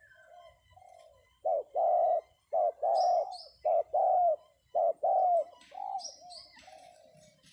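Spotted dove cooing: four loud, evenly repeated calls, each a short note followed by a longer coo, with softer coos before and after. This is the decoy dove's call used to lure wild doves down. A small bird chirps high up twice in the background.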